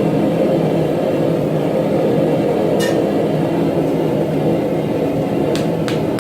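A steady, loud roar, with one light metallic tap that rings briefly about three seconds in and the first light strikes of a run starting near the end.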